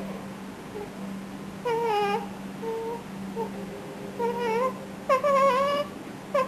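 A newborn whimpering in about half a dozen short, high pitched cries, the longest near the end lasting under a second, over a steady low hum.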